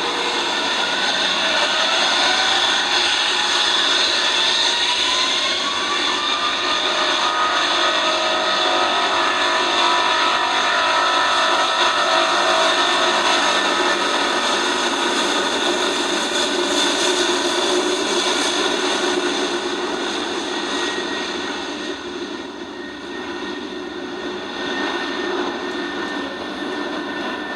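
Jet airliner engines running loud, with a whine that rises in pitch over the first several seconds and then holds steady before easing off a little near the end.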